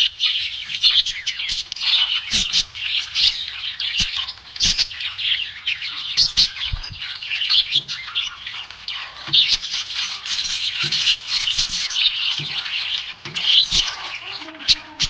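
Budgerigars chirping and chattering without a break, many short quick calls overlapping, with a few faint ticks.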